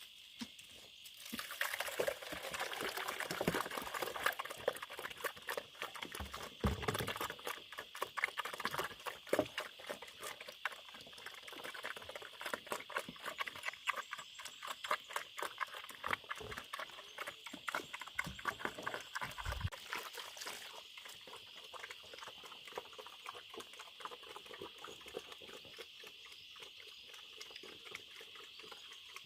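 Dense, irregular clicking and crackling that goes on for about twenty seconds and then thins out, over a steady high insect drone.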